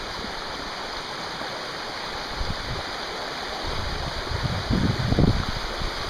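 Steady rush of falling water, with low rumbling buffets that grow stronger in the second half.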